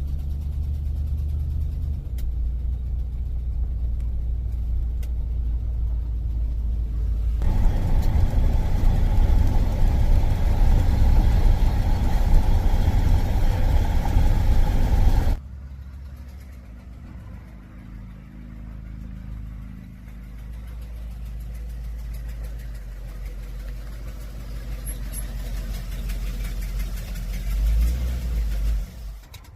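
A car's engine running with a steady low rumble, which gets much louder and noisier for several seconds in the middle, then drops suddenly to a quieter low hum.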